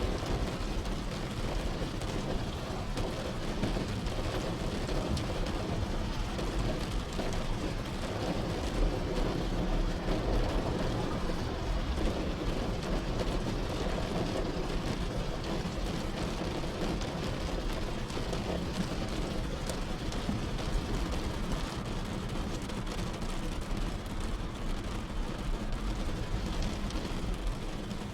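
Steady rain falling on a car, heard from inside with a constant low rumble underneath.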